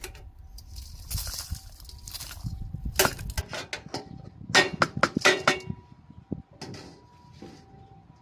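Handling of food scraps and containers during home food-scrap composting: a rustle, then a run of sharp knocks and scrapes bunched around the middle, with a few more near the end.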